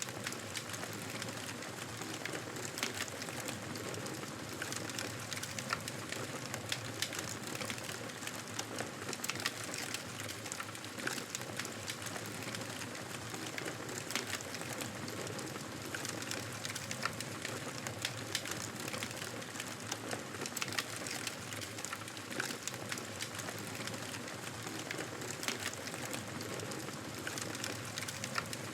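Campfire burning, wood crackling with a steady hiss and irregular sharp pops and snaps.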